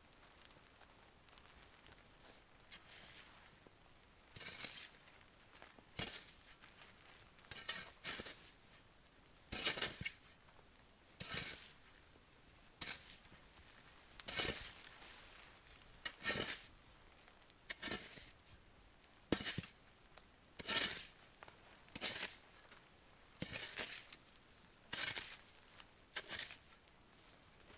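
Slow, regular crunching footsteps in snow, one step about every one and a half seconds, starting a few seconds in.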